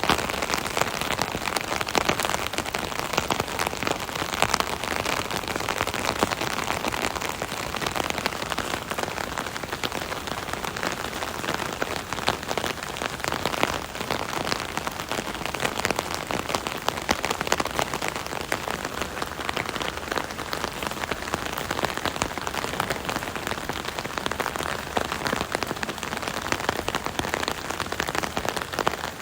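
Steady rain drumming on an umbrella canopy overhead, a dense patter of close individual drop hits over a continuous hiss of rainfall.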